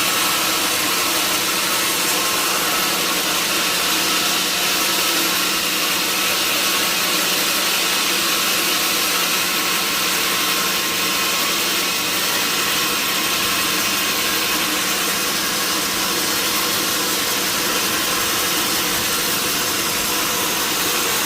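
Sawmill saw machine running steadily, a constant low hum under an even hiss.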